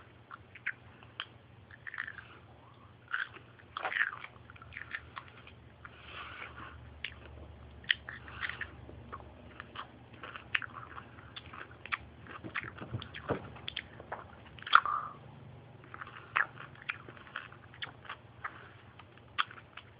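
Close-up sounds of a person biting into and chewing pickles by hand: irregular wet crunches and mouth clicks, with a louder crunch near the middle.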